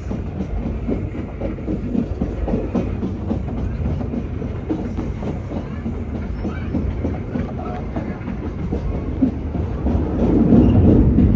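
Passenger train running along the track, a steady low rumble of the carriage with wheels clicking over rail joints, growing louder about ten seconds in.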